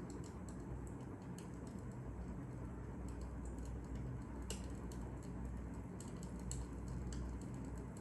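Fire crackling: irregular sharp pops and ticks over a low, steady rumble, with a couple of louder snaps about halfway through.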